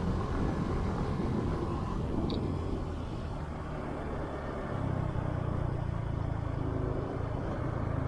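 Motorbike engine running at low speed while riding, a steady low drone that grows a little louder about halfway through.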